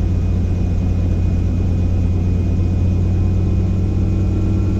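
Helicopter running steadily: a constant low drone with a strong hum and an even rushing noise above it.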